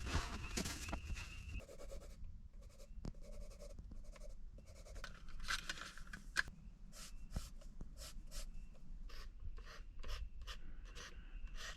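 Scraping and irregular clicking of a utensil working in a camp cooking pot, over a low steady hum. A steady high trill stops about a second and a half in.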